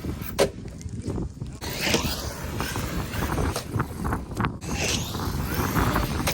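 Electric RC trucks' brushless motors whining, rising and falling in pitch as they speed up and slow down, with a sharp knock about half a second in and a few more later.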